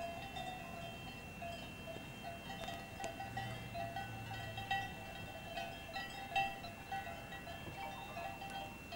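Several bells ringing on and off without a break, each holding a steady pitch, with a few faint clicks.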